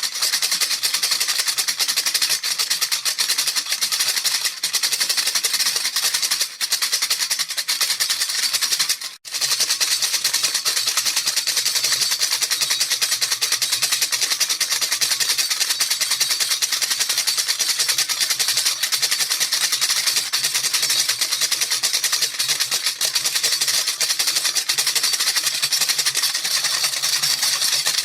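Baby rattle shaken continuously in a fast, even rattle, bright and hissy, with a brief break about a third of the way through.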